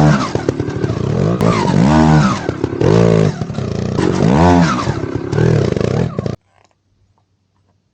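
Beta dirt bike engine revving up and falling back again and again, about one rise every second, under load on the trail. About six seconds in the sound cuts off abruptly, leaving near silence.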